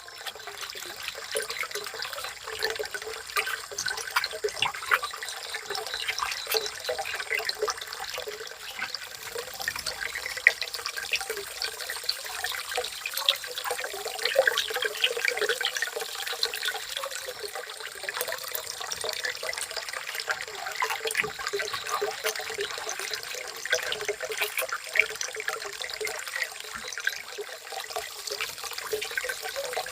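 Water splashing and trickling steadily, with a dense patter of small clicks and taps.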